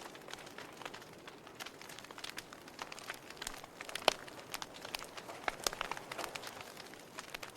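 Wood fire burning in a fireplace, crackling with irregular sharp pops over a soft hiss; one louder pop about four seconds in.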